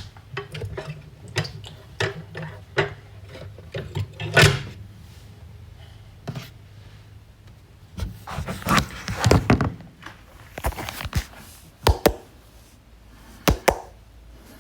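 Kitchen handling noises: irregular knocks, taps and clatters of things being picked up and set down, with a cupboard or door thunk. There is a louder knock about four seconds in, a busy run of clatter from about eight to ten seconds, and sharp clicks near the end, over a low steady hum.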